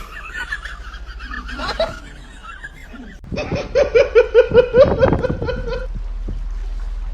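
A person laughing: a quick run of high-pitched "ha" pulses, about three to four a second, starting around the middle and lasting a couple of seconds.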